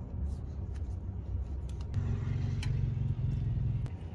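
Low rumble of a motor vehicle engine running, with a steadier hum for about two seconds in the second half. A few light clicks as a rubber strap and a plastic water bottle are handled.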